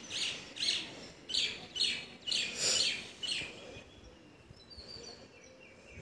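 A bird chirping: a run of short, high calls, about two a second, for the first three and a half seconds, then a few fainter, thinner calls.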